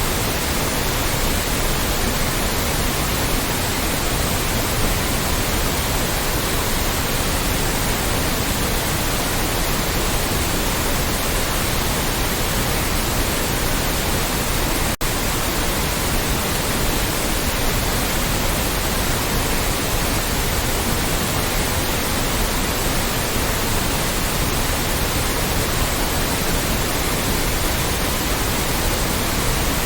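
Loud, steady white noise, an even hiss spread across all pitches, with a split-second dropout about halfway through.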